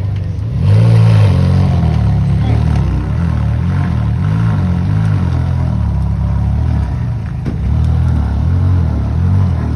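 Car engine running close by with a deep rumble, its revs rising and falling; it gets louder about half a second in.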